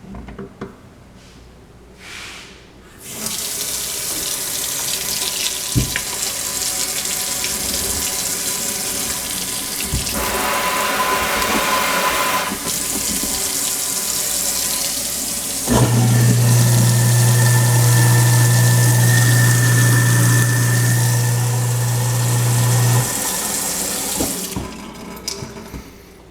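Water running from a newly installed kitchen faucet into the sink, starting a few seconds in. Past the halfway point a newly installed garbage disposal switches on and runs with a steady low hum under the water for about seven seconds, then shuts off, and the water stops shortly after.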